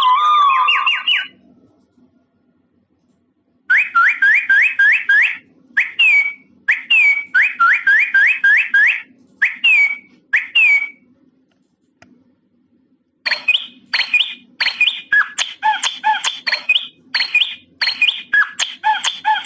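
Electronic doorbell sound chip playing its synthesized bird-chirp chime: quick repeated chirps, each a short rising or falling sweep, in two long phrases with a pause of about two seconds between them.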